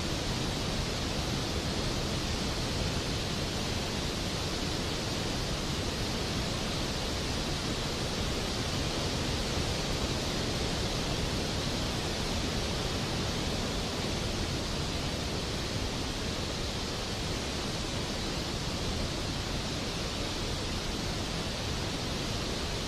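Steady rain, an even hiss with no thunder claps or changes.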